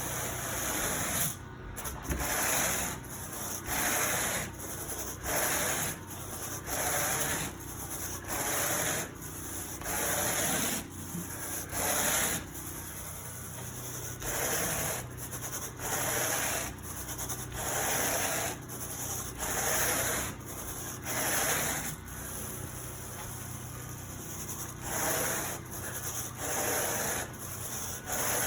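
Carpet rake being dragged through carpet pile in steady back-and-forth strokes, a rhythmic scratchy rubbing about once every second and a half.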